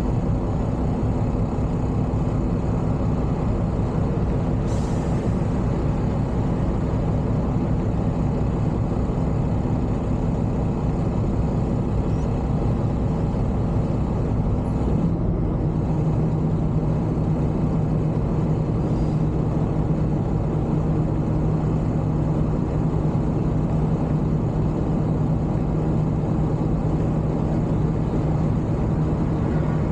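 Semi truck's diesel engine running steadily, with a short hiss about five seconds in and a change in the engine's note about fifteen seconds in.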